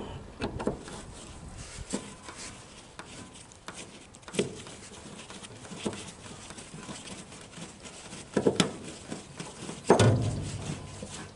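Scattered clicks, knocks and rubbing of hand tools as a wrench-turned screwdriver works a long screw out of a wooden trailer deck board, with louder knocks about four, eight and ten seconds in.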